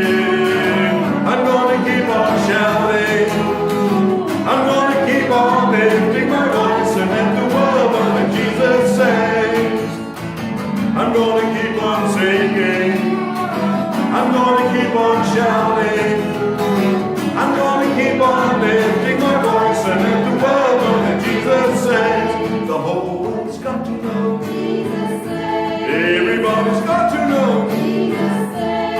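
Gospel song: a choir singing with guitar accompaniment.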